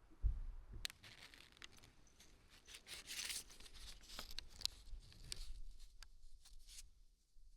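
Faint rustling and crinkling with scattered sharp clicks, like paper or material being handled, plus a low thump just after the start. The rustle is loudest about three seconds in and thins out after about five seconds.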